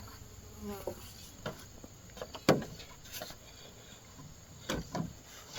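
A few sharp knocks, the loudest about two and a half seconds in and two more close together near the end, over a faint background of insects.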